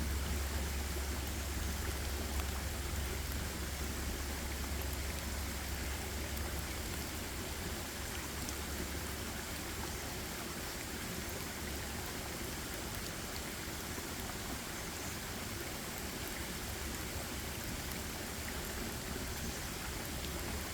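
Steady, even hiss of water in a forest, with a steady low rumble underneath and a few faint tiny ticks.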